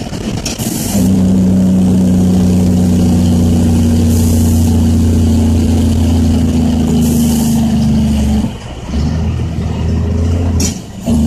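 Caterpillar C10 diesel in a loaded dump truck running on its Jake brake (engine compression brake) with a loud steady drone, cutting out briefly twice near the end as gears are shifted. Three short hisses of air come in over it.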